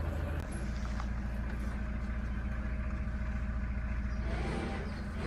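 Narrowboat's diesel engine running steadily at slow cruising speed, with a low, even beat.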